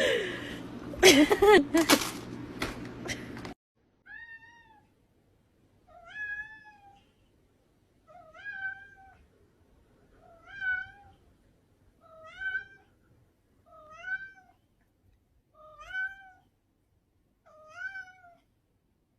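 A few loud knocks and a short cry, cut off suddenly. Then a cat meows over and over, about one meow every two seconds, each call rising and then falling in pitch.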